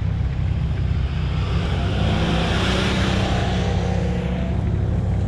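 Off-road 4x4 engine idling steadily, its pitch lifting slightly about two seconds in, with a rushing hiss that swells and fades over the middle.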